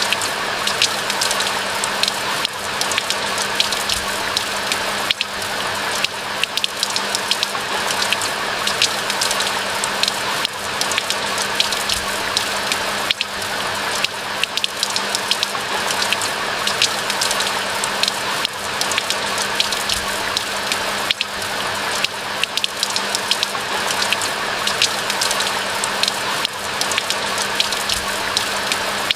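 Steady rain falling in a pine forest: an even hiss with many sharp drop ticks throughout.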